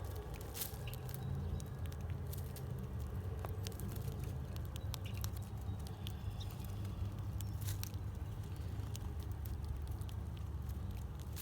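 Scattered small clicks and taps of seed being pecked and cracked at a bird feeder, over a steady low rumble.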